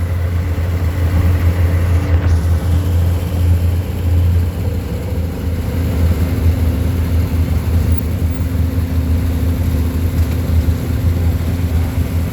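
Vintage farm tractor engine running steadily at low speed as it drives past, a constant low drone.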